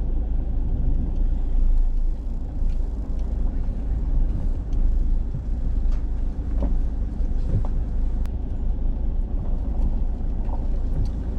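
Steady low rumble of a car in motion, engine and road noise, with a few faint clicks and knocks.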